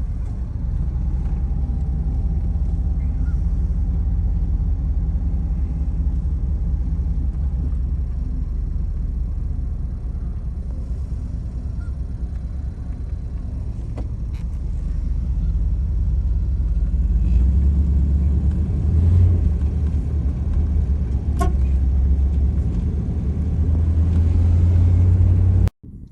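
Low, steady rumble of a car on the move, growing louder in the last third and cutting off suddenly just before the end.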